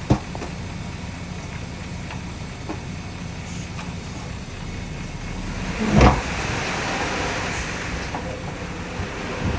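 Heavy diesel earthmoving machinery running steadily. There is a sharp knock at the start, and a loud thud about six seconds in, after which a rushing hiss joins the engine.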